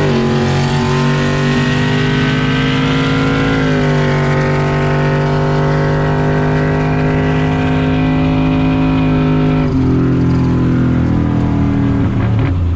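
Cammed pickup truck engine pulling hard at full throttle in a drag race. Its note climbs steadily and drops with an upshift about four seconds in, then again near ten seconds.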